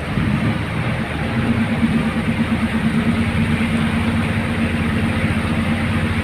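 A boat's engine running steadily with a fast pulsing beat, picking up a little about a second in.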